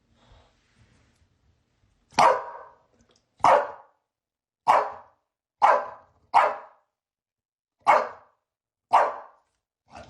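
A dog barking alone, seven single barks spaced about a second apart, starting about two seconds in.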